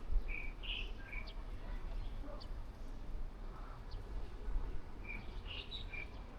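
Small birds chirping: a quick cluster of short, high notes near the start and another near the end, over a steady low rumble.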